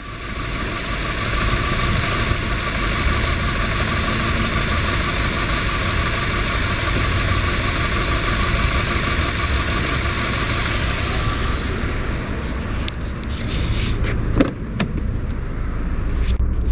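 VW Golf Mk5 1.6-litre BGU petrol four-cylinder engine running steadily at idle. A loud high hiss over it stops about twelve seconds in, and a few clicks and one sharp knock come near the end.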